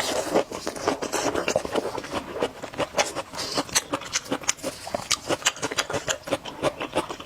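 Wet chewing and mouth sounds of someone eating, a dense run of rapid smacking clicks.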